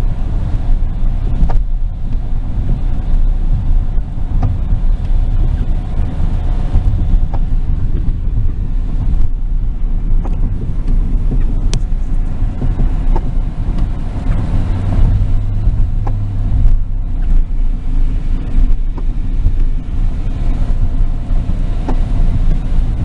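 Steady engine and road rumble heard from inside the cab of a moving Ford pickup truck.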